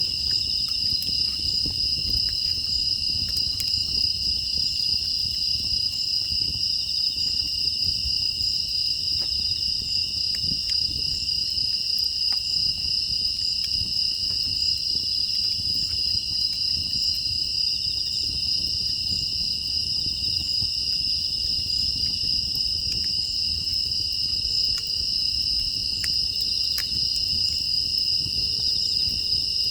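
Steady chorus of crickets and other grass insects, a continuous high trill at two pitches. Scattered faint crackles from a wood fire sound underneath.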